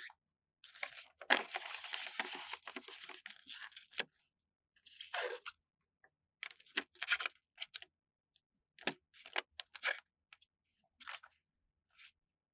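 A paper sticker peeled slowly off its backing sheet, a crisp crackling that lasts about three seconds, followed by a series of short rustles and taps as the sticker is handled and pressed down.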